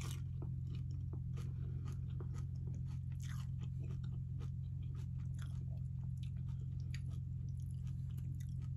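Close-miked chewing of nachos, tortilla chips with ground meat: irregular crisp crunches over a steady low hum.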